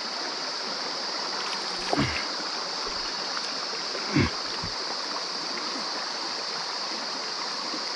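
Mountain stream flowing steadily, running low in a dry spell, with two brief knocks about two and four seconds in.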